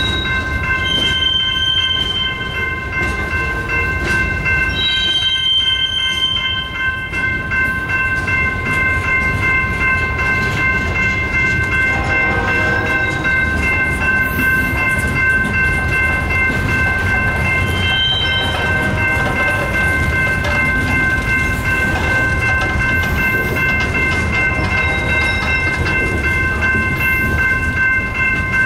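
A freight train's boxcars and tank cars rolling past with a steady rumble and clatter of wheels on rail, under a grade-crossing bell ringing without a break. Brief high wheel squeals come a few times.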